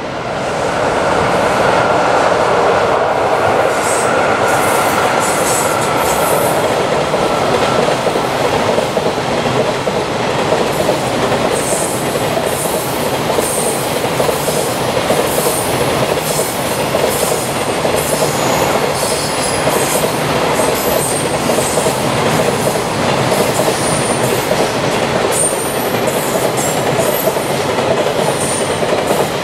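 A long freight train of container wagons passing at speed: a steady rumble of wheels on rail with a clickety-clack over the rail joints. From about twelve seconds in, brief high squeals recur again and again.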